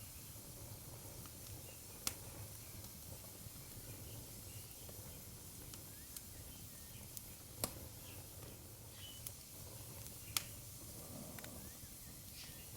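Wood fire crackling in a fireplace: scattered sharp pops and small snaps over a soft steady hiss, with three louder pops about two, seven and a half and ten seconds in.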